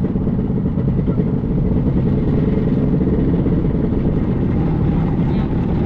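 Motorboat engine running steadily while the boat is under way.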